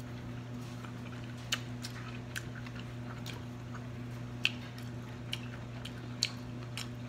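A person chewing a mouthful of ham and bread, with short, irregular wet mouth clicks over a steady low hum.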